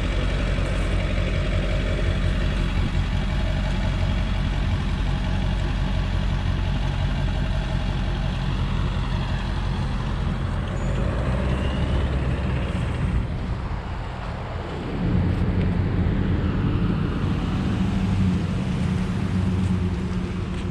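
A motor vehicle's engine idling steadily. About three quarters of the way through it dips briefly, then its low note comes back stronger.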